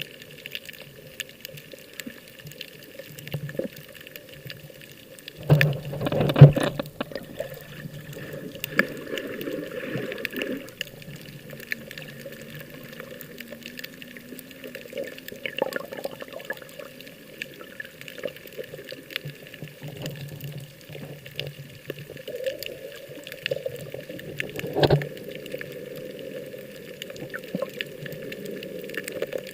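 Water moving and splashing, with a cluster of loud knocks about six seconds in and a sharp click near the end.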